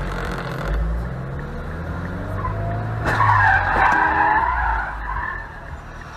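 A car's engine running, then its tyres squealing in a skid for about two and a half seconds, starting about halfway through.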